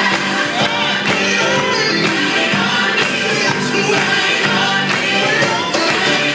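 Gospel worship music: a choir singing with a live band, with a steady beat.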